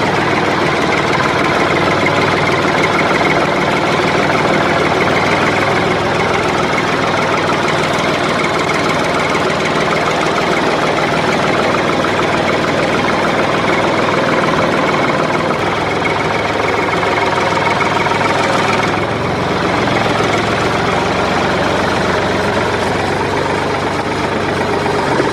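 Toy JCB tractor running steadily with a continuous engine-like drone that barely changes, dipping slightly for a moment about 19 seconds in.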